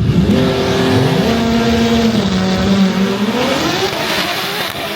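Drag race car engine at full throttle, its pitch climbing steeply as it accelerates, dipping once about two seconds in, then climbing again.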